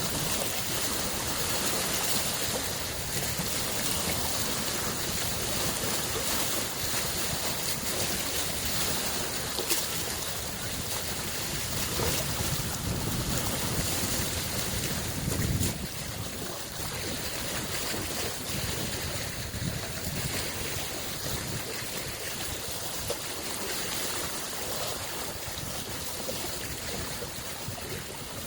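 Lake waves washing on the shore in a steady wash, with one stronger surge swelling about halfway through that drops off suddenly.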